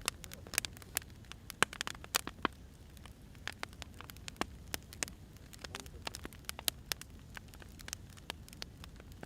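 Firewood fire crackling: irregular sharp pops and snaps over a low, steady hiss and rumble of burning logs.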